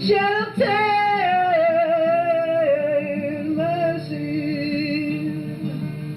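Music: a high singing voice holding long notes with vibrato over a quiet accompaniment.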